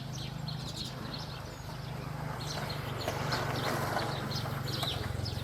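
Small birds chirping in quick, short, high notes over a steady low hum, with a rustling swell in the middle.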